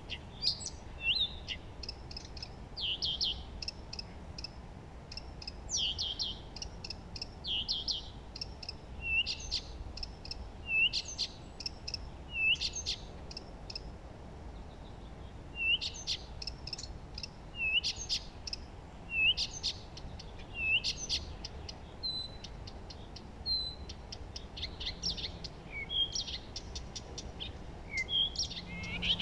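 Songbirds chirping and singing: short, high, whistled notes and chirps repeat every second or so, several of them quickly rising or falling.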